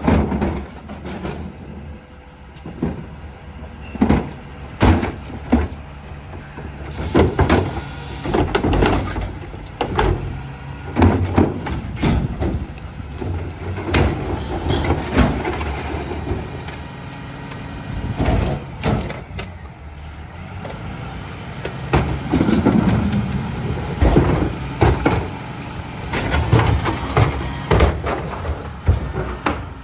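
Mack rear-loader garbage truck at work: the diesel engine runs steadily under frequent loud bangs and metal clanks, with a short hiss about seven seconds in.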